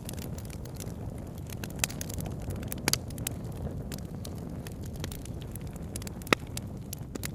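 Campfire crackling, with sharp wood pops scattered through it, the loudest about six seconds in, over a steady low rush of flowing river water.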